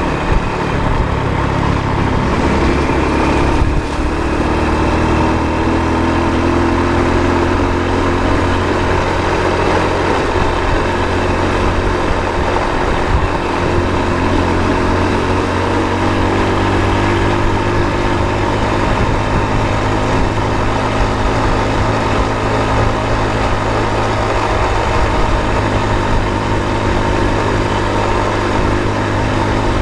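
A motor vehicle's engine running on the road with a steady low hum. Its pitch climbs and eases a few times as it speeds up and backs off. There is one brief thump just under four seconds in.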